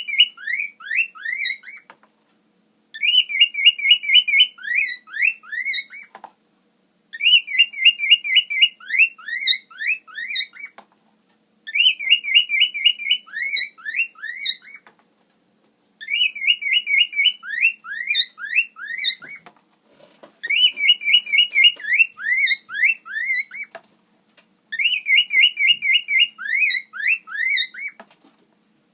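Cockatiel whistling the same short phrase over and over, about every four seconds with brief pauses between. Each phrase is a quick warbling trill followed by a few swooping notes.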